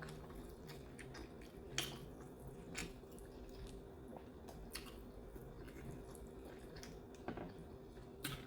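A person chewing a mouthful of food, with a few short wet clicks and smacks spread through, over a faint steady hum.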